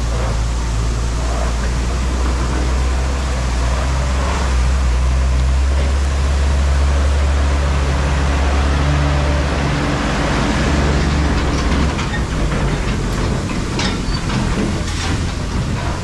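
Tractor diesel engine running steadily and hard, with a broad rushing noise, as a trailer tips its load of wheat. The engine note drops about twelve seconds in, followed by a few sharp knocks.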